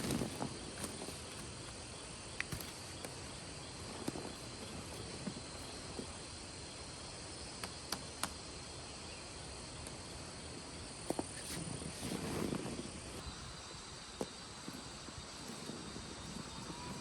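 Insects trilling steadily in the background, with scattered light clicks and knocks and a brief louder rustle about twelve seconds in.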